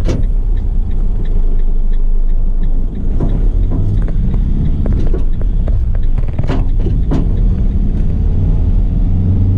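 2018 Fiat Ducato's 2.3 diesel engine running as the truck pulls away and accelerates, heard from inside the cab: a steady low rumble that dips briefly about three seconds in. A couple of sharp knocks sound about two-thirds of the way through.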